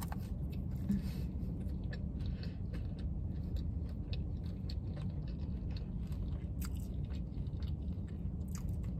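Close-up chewing of crispy crinkle-cut fries with cheese and bacon: many small irregular mouth clicks and crunches over a steady low hum.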